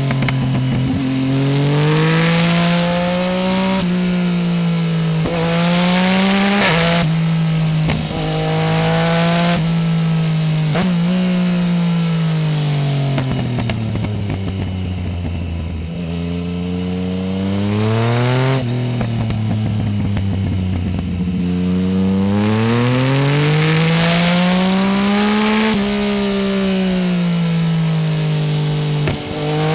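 Yamaha Tracer 900 GT's three-cylinder engine through a full aftermarket exhaust without its dB killer, revving up through several quick upshifts. It rolls off with the revs falling away for a few seconds mid-way, then pulls hard again and shifts up once more near the end.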